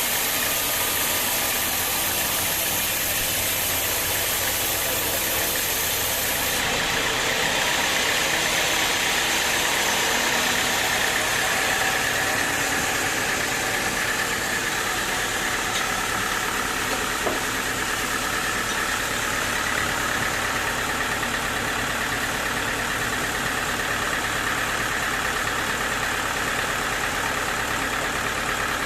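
Sawmill machinery running steadily: the drone of a motor-driven saw, with a higher whine that comes in about seven seconds in and holds.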